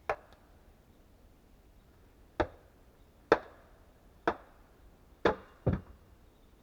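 Axe striking wood: five sharp, irregularly spaced chops, each ringing briefly, then a duller, deeper knock just after the last.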